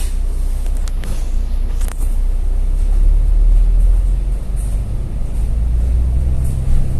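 Double-decker bus running on the road, heard from inside: a loud, steady low engine rumble, with a couple of brief rattles or clicks about one and two seconds in.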